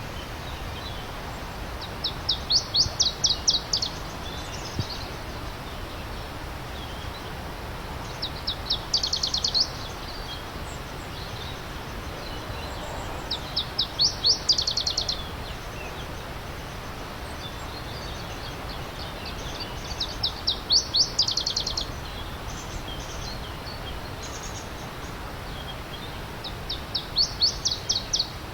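A songbird repeating a short, fast song of rapid notes five times, about every six seconds, over the steady rushing of a stream.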